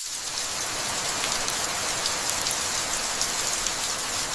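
Steady rain falling, a dense even hiss with fine ticks of individual drops, beginning abruptly.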